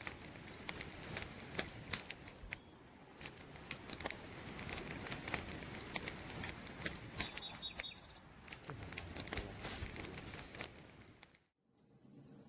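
Campfire burning, with a steady hiss and many sharp crackles and pops from the burning wood. A couple of brief high chirps come in about two-thirds of the way through, and the sound drops out for a moment near the end.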